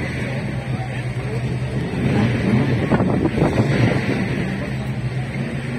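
Drag-race car engines running at the start line, a steady hum that swells louder for a couple of seconds midway, over faint crowd chatter.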